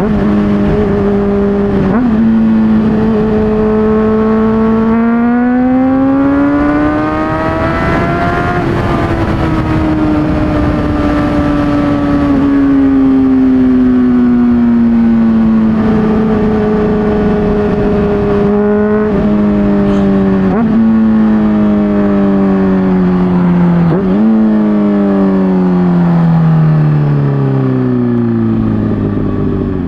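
Honda CBR600RR inline-four engine running through an aftermarket MGP Growler exhaust while riding. The revs climb about six to nine seconds in, then ease off slowly, with short sudden blips in pitch around two, nineteen, twenty and twenty-four seconds, and drop lower near the end as the bike slows.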